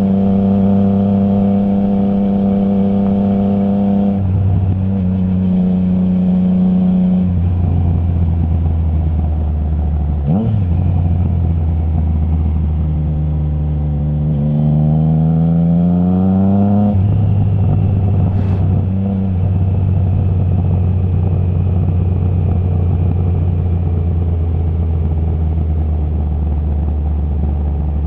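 Triumph Trident 660's inline three-cylinder engine on the move, through a Zard stainless full exhaust with the baffle removed. The engine pitch steps down a couple of times in the first seconds, then rises steadily under acceleration for about three seconds. The revs drop sharply at a quickshift, and the bike cruises at steady, lower revs for the rest of the time.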